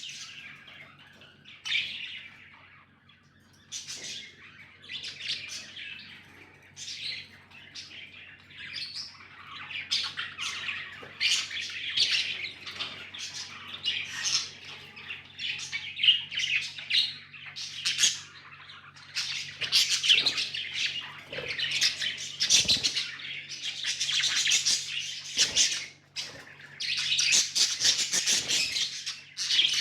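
Pet budgerigars chirping and squawking in quick, overlapping calls, growing busier from about ten seconds in. A faint, steady low hum runs beneath them.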